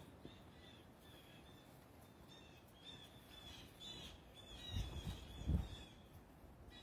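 Faint, short bird chirps repeating throughout. Two low thumps come near the end and are the loudest sounds.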